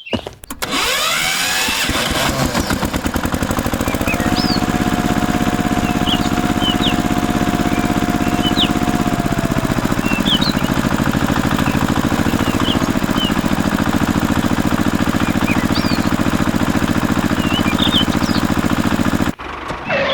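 A small mini tractor engine starts up about a second in and runs steadily, with short bird chirps over it.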